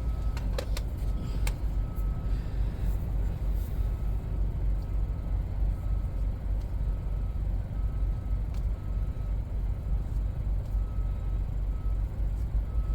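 Heat gun blowing steadily, a low rumbling rush of air, with a faint high tone pulsing on and off about one and a half times a second. It is heating the stretched, saggy seat cover so it will shrink tight when chilled.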